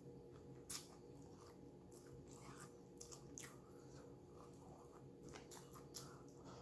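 Faint mouth noises of someone chewing food close to the microphone: scattered soft wet clicks, the sharpest about a second in, over a low steady hum.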